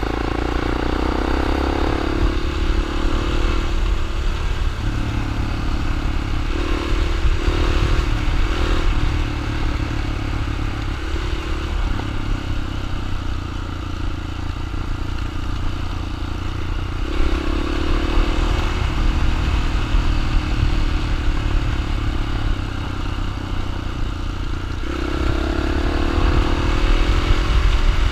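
Dirt bike engine running while the bike is ridden, its pitch rising and falling with the throttle, under a heavy low rumble.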